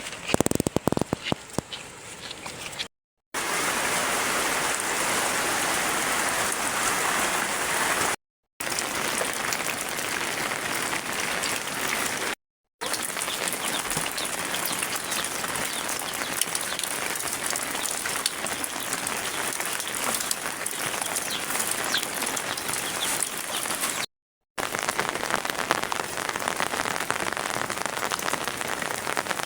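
Heavy rain falling steadily and densely on surfaces, broken by short silent gaps four times. A few sharp knocks sound in the first couple of seconds, before the rain comes in loudly.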